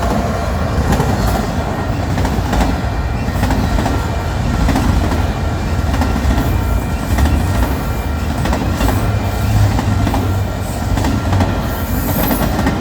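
A Union Pacific freight train's cars roll past fast with a loud, steady rumble and scattered clicks from the wheels over the rail joints. A short high squeal comes near the end.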